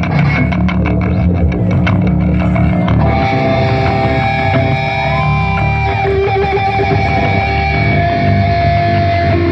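Live rock band playing an instrumental passage without vocals: electric guitar through effects, bass and drums. From about three seconds in the guitar holds long sustained notes, with one note bent up and back down.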